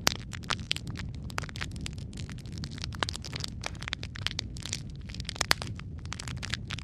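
Wood fire crackling in a fireplace: irregular sharp pops and snaps over a steady low rumble of the flames, with a louder pop near the start and another about two thirds of the way through.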